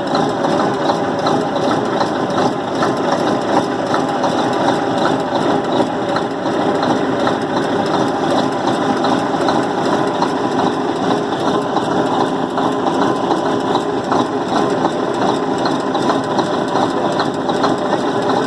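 Scania truck diesel engine running steadily with a rapid, uneven ticking over its running sound; the engine has a blown gasket.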